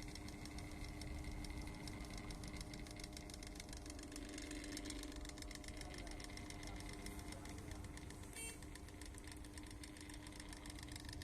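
Table fan's electric motor running steadily with a hum and a fast, even rattle, typical of its worn bearing.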